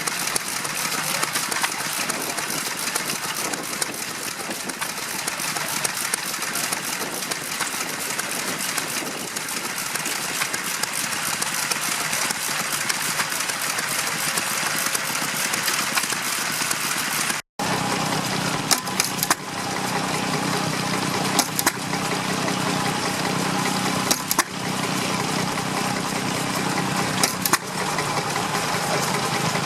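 Vintage stationary engines running, heard in two shots joined by a cut about 17 seconds in. The first is a dense, fast mechanical clatter. The second is a steadier hum broken by sharp knocks every few seconds.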